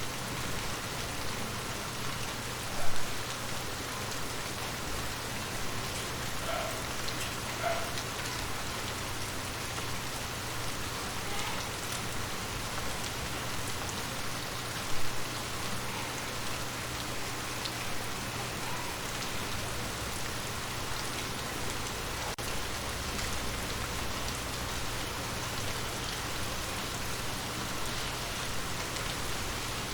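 Steady rain falling and pattering on surfaces, with two brief sharp knocks standing out, about three seconds in and again about fifteen seconds in.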